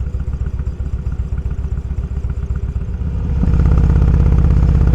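Motorcycle engine running at low speed with a steady low pulsing rumble, then growing much louder about three and a half seconds in as the throttle opens.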